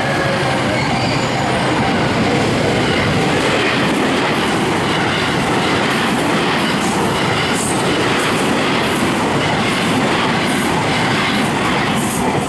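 A train passing through a railroad crossing at speed: a loud, steady rumble of steel wheels on the rails with a few sharp clacks. The crossing's warning bell rings faintly under it at the start.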